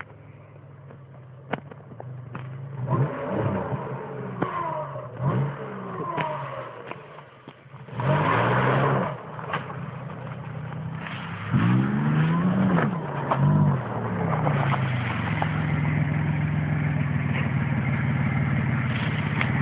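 An old sedan's engine revving up and down several times as the car drives through a flooded creek crossing, with a loud rushing burst about eight seconds in. Near the end the engine runs steadily and louder as the car pulls up close.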